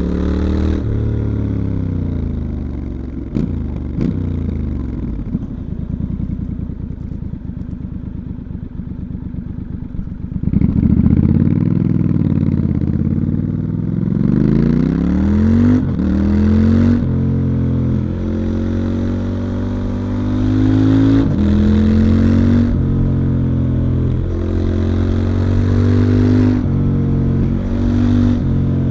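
A stock 2019 Triumph Scrambler 1200 XE's parallel-twin engine heard onboard: revs fall off and it pulls at low revs with a lumpy, pulsing beat, then about ten seconds in it accelerates hard, revs climbing and dropping back at each of several upshifts.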